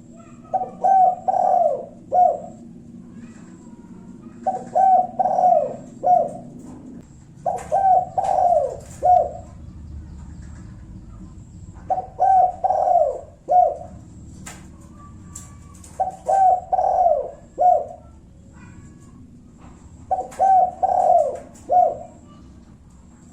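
Spotted dove cooing its song six times, about every four seconds. Each phrase is a quick run of coos ending in a single separate 'kuk' note, the single-kuk call type.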